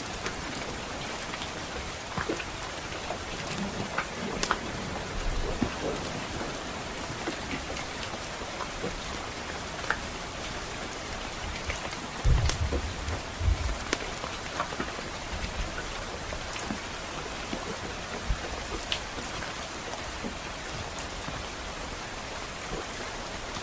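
Steady rain falling on a roof, with a crackling wood fire: scattered sharp pops and snaps over the rain's even hiss. There is a brief low rumble of distant thunder about halfway through.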